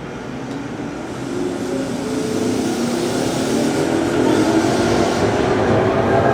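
JR Kyushu 811 series electric train pulling away from the platform: its traction motors and VVVF inverter whine in several tones that rise in pitch as it accelerates, getting steadily louder.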